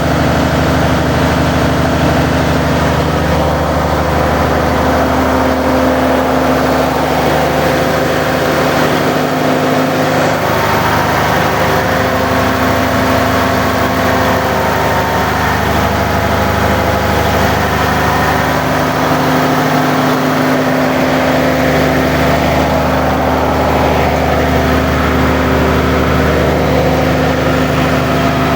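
Cummins NTA855 inline-six turbocharged diesel engine running steadily at a constant speed.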